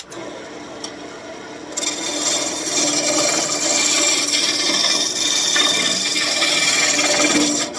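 Roughing gouge cutting a birch branch spinning on a wood lathe, a steady scraping hiss that grows louder about two seconds in as the tool bites.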